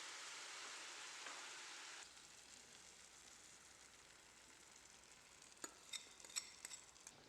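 Faint sizzling of food frying in a pan, which drops abruptly to a quieter hiss about two seconds in, followed by a few light clicks near the end.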